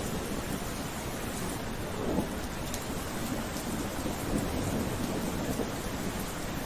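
Steady rain falling, an even hiss of many drops, with a low rumble that swells and fades beneath it a couple of times.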